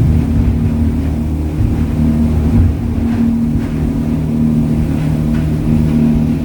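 Charter fishing boat's engine running steadily, a low drone.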